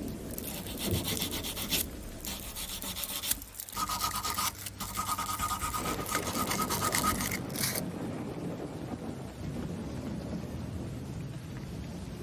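Rapid, repeated scraping and rubbing strokes of hand abrasive work on a knife's metal, with a steady high tone in the middle. After about eight seconds it gives way to a softer, duller rushing noise.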